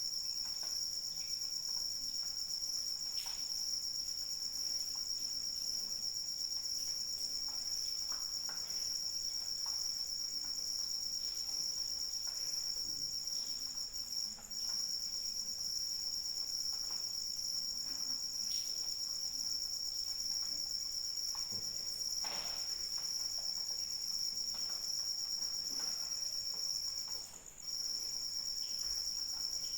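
Crickets trilling, a continuous high-pitched chorus that dips briefly twice, about halfway through and near the end.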